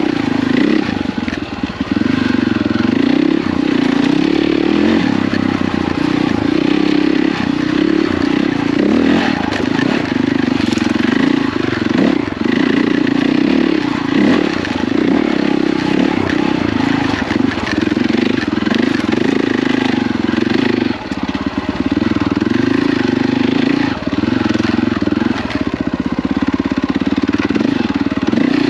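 KTM 450 EXC's single-cylinder four-stroke engine running as the dirt bike is ridden through tight woods trail, its note rising and falling with the throttle, with brief off-throttle dips about two seconds in and again around twenty-one seconds.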